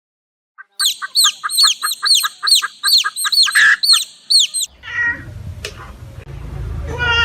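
A bird calling in a quick series of short, falling, high chirps, about four a second. After that comes a low rumble, and a new pitched animal call begins right at the end.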